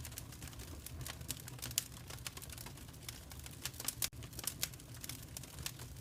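Wood fire in a fireplace crackling: a dense, irregular run of sharp pops and snaps over a steady low rumble.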